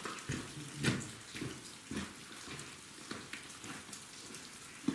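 Rainwater dripping and pattering in light drizzle: irregular single drops a few times a second, the loudest about a second in.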